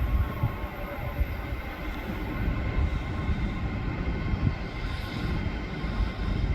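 A train running past with a steady low rumble from its wheels and running gear, and a faint steady whine above it.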